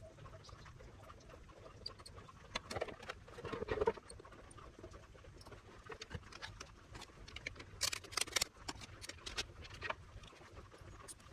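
Light clicks and taps in irregular clusters, busiest about three to four seconds in and again around eight seconds, over a low steady background.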